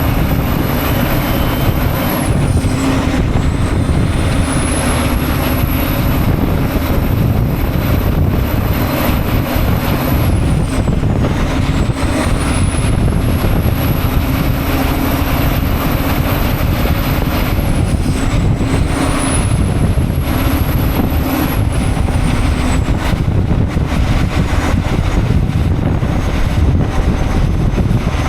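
Semi truck driving, its engine and road noise steady and loud, with a very high whine that climbs, holds, then drops away, four times over.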